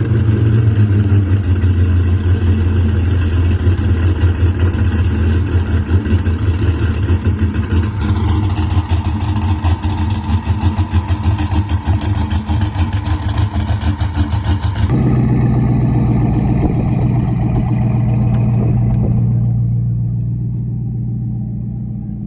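Hypercar engine idling loudly after a cold start. About fifteen seconds in, the sound cuts abruptly to another engine idling more quietly, which fades near the end.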